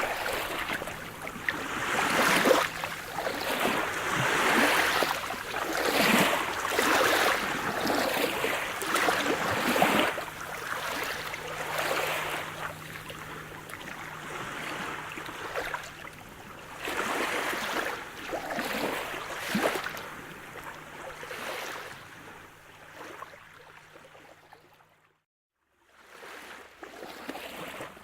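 Sea surf: waves breaking and washing ashore in repeated swells, rising and falling every few seconds. Near the end the sound cuts out to silence for about a second and comes back quieter, like a splice in the recording.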